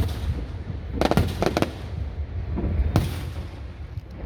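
Fireworks bursting overhead: a bang at the start, a quick cluster of several bangs about a second in, then two more around three seconds in, over a steady low rumble.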